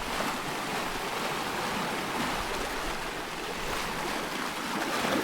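Loch water lapping and splashing in a steady wash of small waves.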